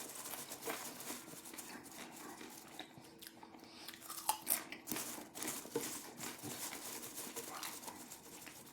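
A person chewing a mouthful of microwave popcorn: a run of irregular, soft crunches and crackles.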